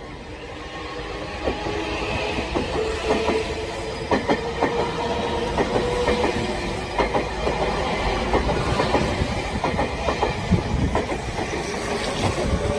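Kintetsu electric train passing close by, its wheels clacking over the rail joints in a run of sharp, uneven clicks, with a steady tone underneath. It grows louder over the first two seconds as the train comes up.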